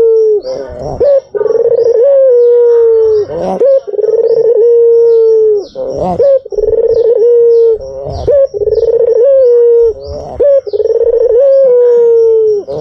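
White puter (domestic ringneck dove) cooing loudly: a string of long, low, rolling coos, each lasting under two seconds and repeated about every two and a half seconds. Short high chirps from another small bird run underneath.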